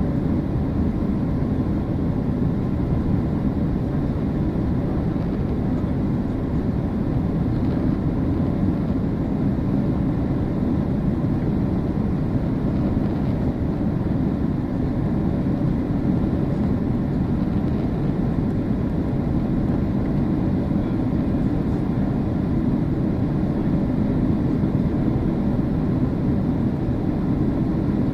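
Airliner cabin noise heard from inside the aircraft: a steady low rumble of engines and rushing air, with a faint steady hum above it and no change in level.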